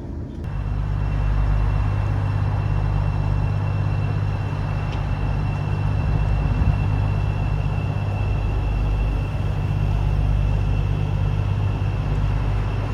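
Thameslink electric train departing: a steady low rumble with a thin, steady high-pitched whine, starting about half a second in.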